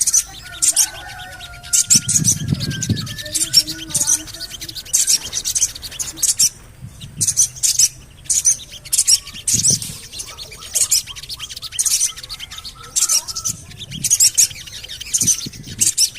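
Sogon bird calls: short, very high chirps ("cuit cuit", "cret cret") in quick clusters, repeated about once or twice a second, with a few faint longer notes beneath. A lure call for a captive sogon, to set it calling. A few low thumps, the strongest about two seconds in.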